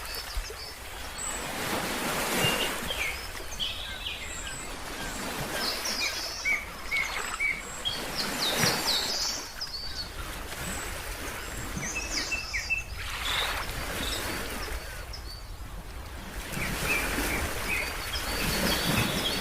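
Ocean waves washing in and drawing back, swelling every four to six seconds, with birds giving short, high chirps over them.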